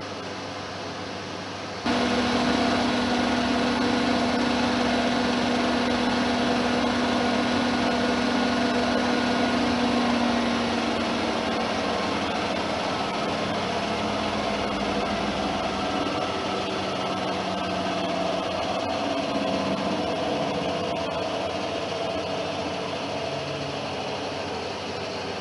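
Bosch Serie 6 front-loading washing machine spinning: a whining motor hum starts abruptly about two seconds in. From about halfway its pitch slowly falls and it grows quieter as the drum slows.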